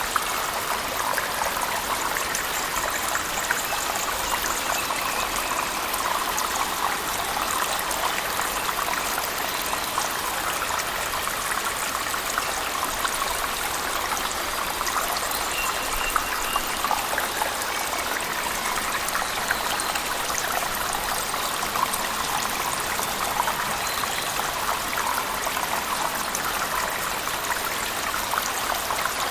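Steady rush of a cave waterfall mixed with heavy rain, an even wash of falling water with dense fine patter.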